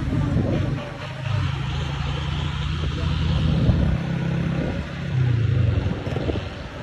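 Old Bedford truck engine running, its low note dipping about a second in and rising in pitch briefly around five seconds in.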